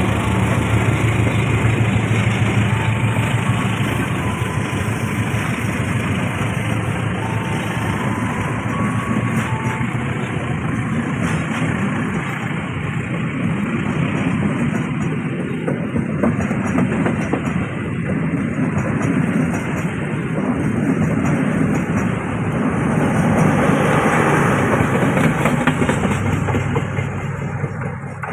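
Long passenger train of coaches passing close by, a steady noise of wheels running on rails with a low hum in the first few seconds, fading near the end as the last coach goes by.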